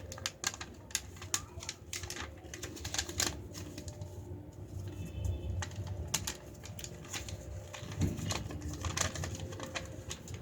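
A sheet of paper being folded and creased by hand into a paper airplane's wing: irregular crinkles and sharp rustles of the paper.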